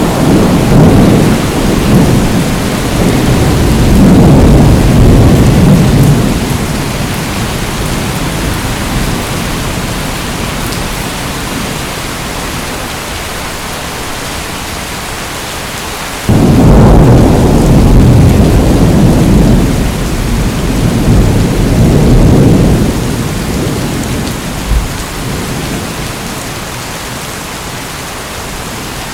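Steady heavy rain with two long rolls of thunder. The first rumbles over the opening seconds and dies away about seven seconds in; the second breaks suddenly about halfway through and rumbles for several seconds before fading.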